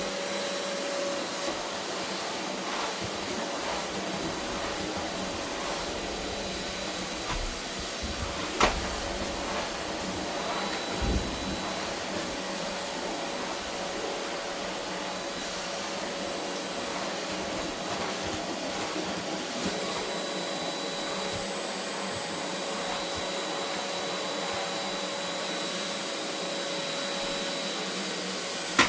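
Vacuum cleaner running steadily on a carpet, a continuous motor drone with a faint steady whine. A few sharp clicks or knocks break through, the loudest about eight and a half seconds in, with a low thud a few seconds later.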